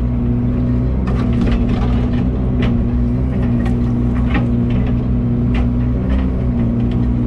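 Excavator engine running steadily under load, with irregular sharp snaps and cracks of brush and branches breaking.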